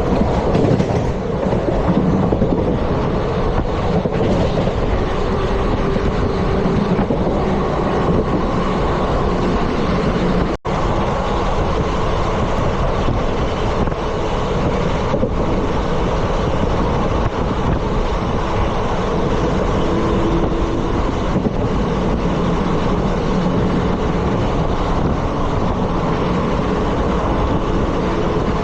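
ICF passenger coach running at speed behind a WAP-4 electric locomotive: a steady, loud rumble of wheels on the rails with a few faint knocks over rail joints. The sound cuts out for an instant about a third of the way through.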